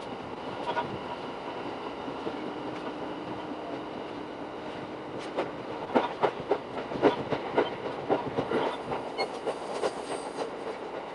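Shinano Railway SR1 series electric train running, heard from inside the car as a steady rumble. About six seconds in, a run of sharp clicks and knocks from the wheels clattering over the track begins and lasts about four seconds; it is the loudest part.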